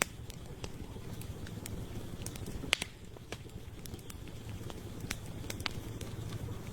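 Campfire crackling: burning firewood gives a steady low rumble under irregular sharp pops and snaps, with one louder pop a little before the middle.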